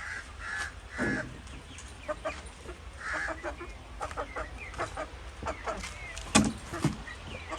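Young Indian parrot-beak chickens clucking and calling in short, scattered notes, with a single sharp knock about six seconds in.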